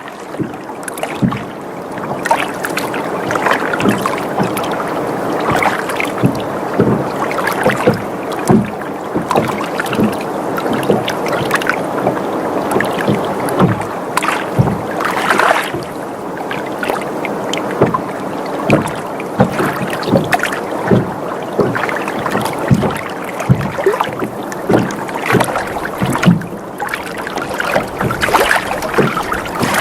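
Water sloshing and lapping against a sailboat's hull as it rocks, with frequent small slaps and knocks over a steady wash, along with the boat creaking. It fades in over the first couple of seconds.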